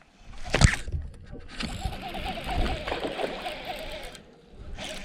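A sharp knock about half a second in, then a couple of seconds of water splashing.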